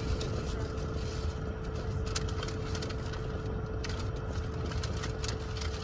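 Crunchy breaded Korean corn dog being bitten and chewed: scattered small crunches and clicks over a steady low hum with one constant tone.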